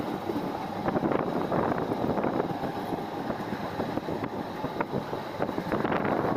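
Passenger train running along the track, heard from on board: a steady rumble and rattle with scattered irregular clicks, and wind on the microphone.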